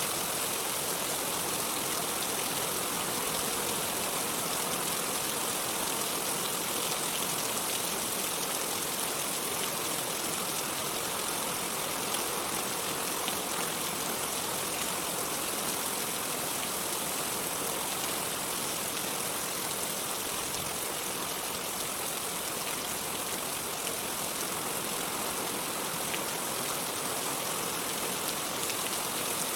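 Steady rain: an even, unbroken hiss, strongest in the treble, with no thunder.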